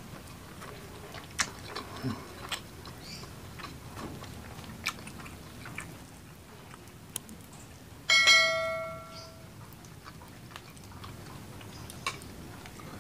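Close-up eating sounds: scattered wet mouth clicks and smacks of chewing fried fish and rice, with the small sounds of fingers picking fish apart. About eight seconds in, one loud bright ringing ding, the loudest sound here, fades out over a second or so.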